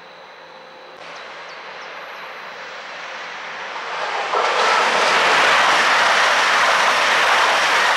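Deutsche Bahn ICE high-speed train approaching and passing at speed. Its rushing noise swells from about a second in and is at full loudness from about four and a half seconds as the cars go by.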